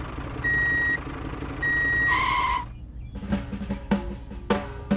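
Electronic reversing beeps, a steady high tone repeating about once a second with a louder two-tone burst. They cut off just before three seconds in, and music with a steady drum beat starts.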